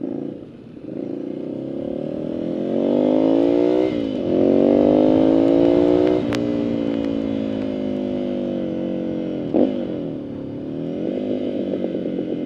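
Ducati Scrambler's 803 cc air-cooled L-twin engine pulling through the gears: the revs climb, break at a shift about four seconds in, and climb again. They then drop back about six seconds in and run steadier, with a short blip of revs near ten seconds.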